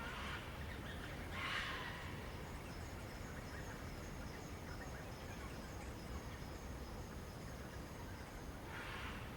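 Three brief soft rustles, one at the start, one about a second and a half in and one near the end, over a steady low background. A faint thin high tone is held through the middle few seconds.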